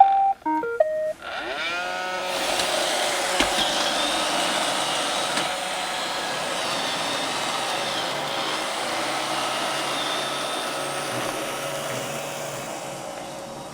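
iRobot Roomba robot vacuum playing its short start-up melody of electronic beeps, then its motors spinning up with a rising whine into a steady vacuum whir that grows quieter near the end.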